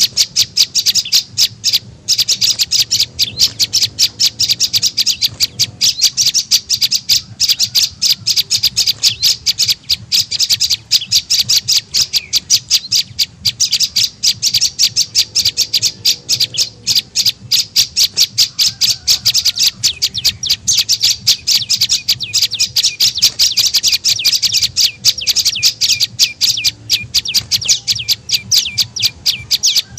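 Prenjak lumut calls played as a bird-trapping lure: a rapid, unbroken run of high, sharp chirps at about five a second, over a faint low hum.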